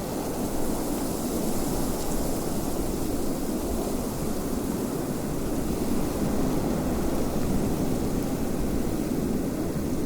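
Wind blowing steadily, a low, even rushing with a faint hiss on top and no marked gusts.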